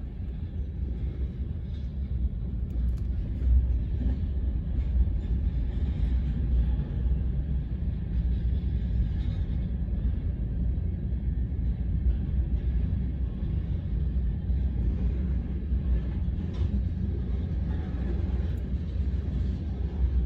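Manifest freight train's cars rolling past, a steady low rumble with occasional faint clicks.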